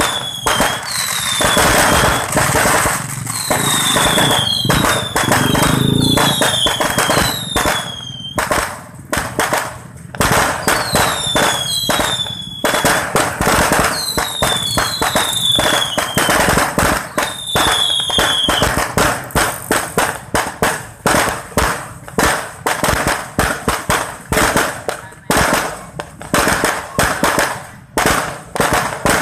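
Fireworks display: aerial shells bursting in quick, crackling bangs, with repeated falling whistles over the first two-thirds. After that come dense pops and bangs, several a second.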